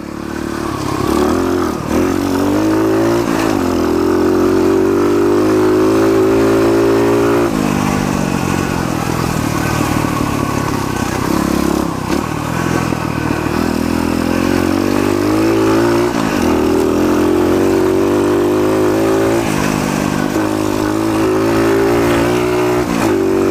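Pitster Pro pit bike engine revving under way. Its pitch climbs and drops back several times as the bike accelerates.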